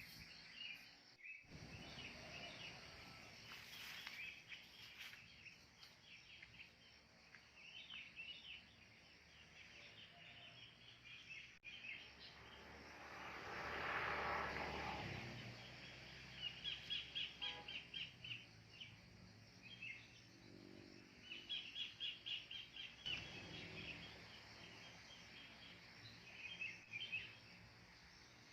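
Wild birds calling: scattered chirps and several rapid runs of short, high notes repeated in quick succession. About halfway through, a rushing noise swells up and fades over a couple of seconds.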